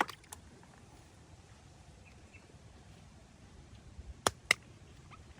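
Faint handling noises over low room tone: a light click at the start, another about a third of a second later, and two sharp clicks a quarter second apart about four seconds in.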